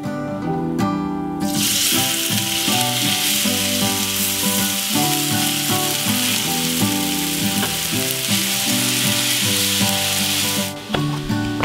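Shredded potatoes sizzling as they fry in a hot cast iron skillet. The sizzle starts suddenly about a second and a half in and cuts off about a second before the end, over acoustic guitar background music.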